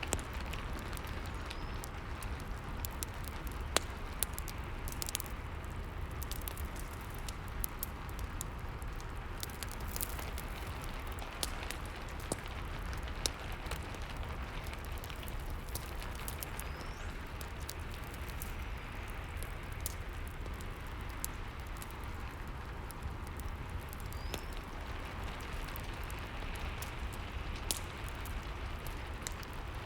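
Steady rain hiss mixed with a fireplace crackling, with frequent short sharp pops scattered throughout.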